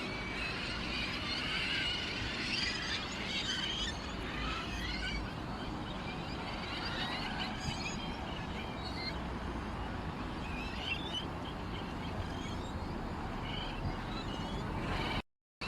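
Many small songbirds chirping and twittering at once, a dense stream of short, high calls that overlap continuously, over a low background rumble.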